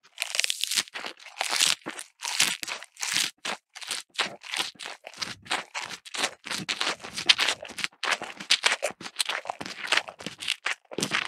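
Irregular crunching and munching of fresh grass being chewed, several crunches a second: a cow-eating sound.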